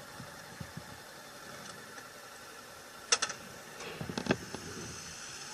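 A vehicle engine running steadily at a low level. A few sharp clicks come about three seconds in, and a cluster of knocks follows a second later.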